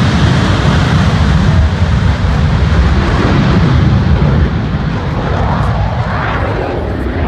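Loud, steady roar of a Blue Angels jet aircraft in flight, easing off slightly about two-thirds of the way through.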